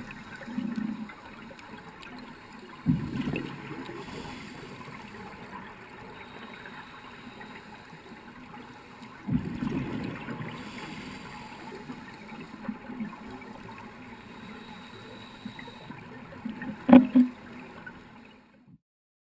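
Underwater scuba sound: a diver's exhaled bubbles gurgling in bursts several seconds apart over a steady water hiss, with a couple of sharp clicks near the end. The sound cuts off suddenly shortly before the end.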